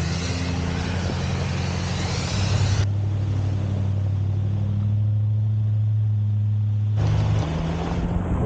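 Off-road 4x4 engines running steadily at low speed, with the sound changing abruptly about three seconds in and again about seven seconds in as the footage cuts between vehicles.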